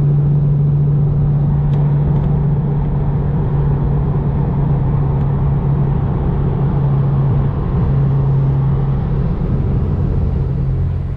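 Car engine running at steady revs with a constant low drone, the revs falling to a lower drone near the end.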